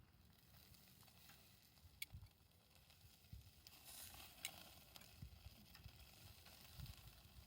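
Near silence: faint outdoor background hiss with a few soft low thumps and two light clicks.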